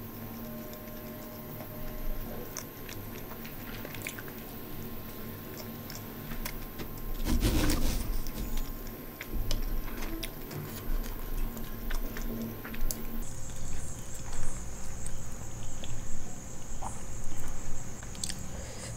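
Close-miked chewing of a mouthful of food: wet smacking and many small mouth clicks, with a louder crunching rustle about seven seconds in.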